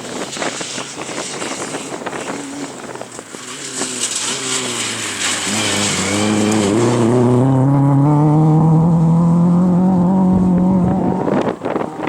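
Rally car engine at full throttle. It is rough and crackly at first with quick shifts in pitch, then holds one long, steadily rising pull of revs before it drops away near the end.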